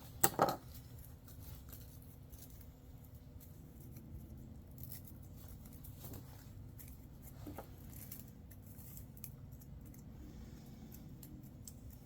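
Faint clicks and small knocks of PVC pipe and fittings being cut and handled, with a couple of sharper knocks about half a second in, over a low steady hum.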